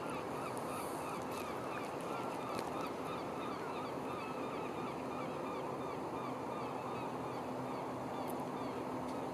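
Hitachi Class 802 train being shunted slowly along sidings: a steady rumble with a low hum and a fast, regular run of faint squeaks, about four a second.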